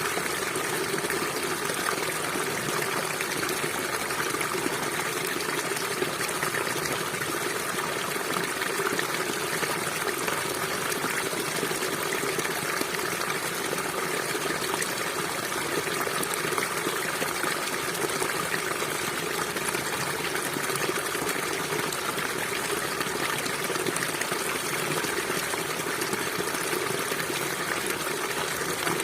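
River water flowing steadily, an even, unbroken wash of water noise.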